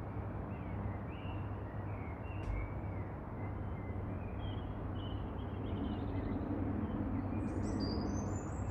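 Birds chirping and calling in short repeated notes over a steady low background rumble, with higher-pitched chirps joining near the end.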